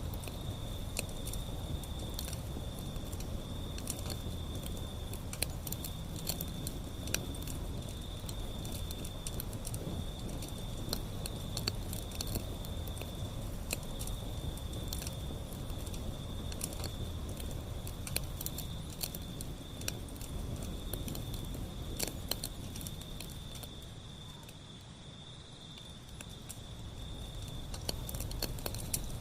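Wood fire burning: a steady low rumble of flames with frequent sharp crackles and pops, and a thin steady high whine throughout. The fire goes quieter for a few seconds near the end, then picks up again.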